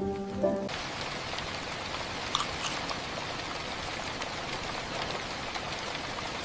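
Gentle rain falling steadily, with a few sharper drips about two and a half seconds in.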